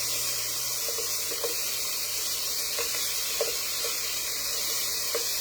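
Lamb chops sizzling in a hot frying pan: a steady hiss of frying fat with a few small pops.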